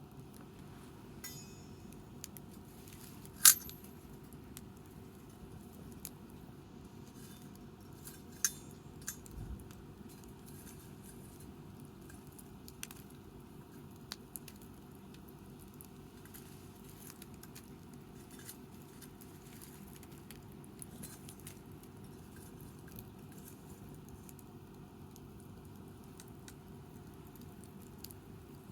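Wood campfire crackling, with scattered sharp pops over a steady low hiss; one pop about three and a half seconds in is by far the loudest.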